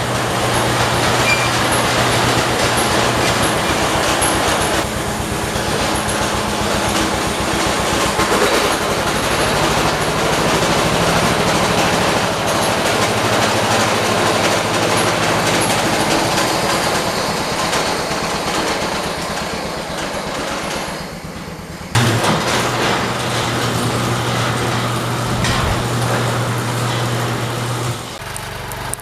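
Garden tractor engine running steadily with a low hum, dipping about twenty-one seconds in, then a sharp knock, and running on until it drops away near the end.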